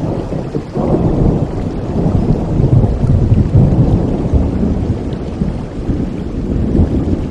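Rolling thunder over steady rain: a deep rumble swells about a second in, is loudest around the middle, then slowly dies away.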